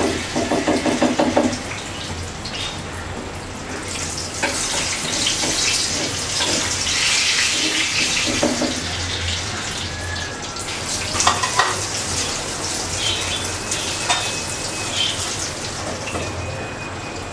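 Eggplant slices sizzling in hot oil in a frying pan, a steady sizzle broken by occasional clinks of a utensil as the fried pieces are lifted out.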